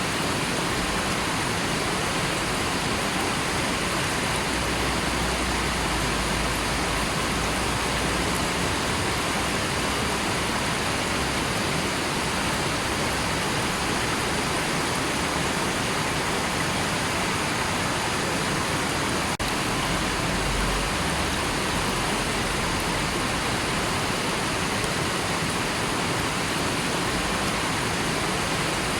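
River water rushing steadily, a constant even hiss of flowing water.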